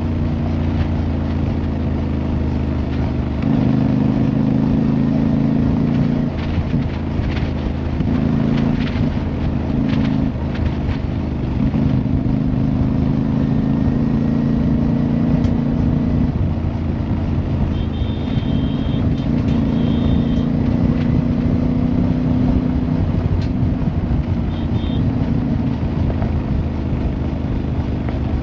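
Motorcycle engine running under way, holding a steady hum whose pitch shifts in steps every few seconds as the speed changes. Short high beeps come in a few times in the second half.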